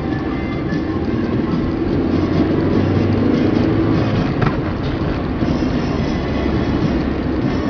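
Tram running along street rails with a steady low rumble.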